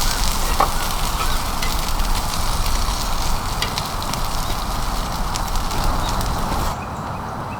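Heavy rain falling, with many small sharp drop ticks over a steady hiss and a low rumble; near the end it drops to a quieter, thinner hiss.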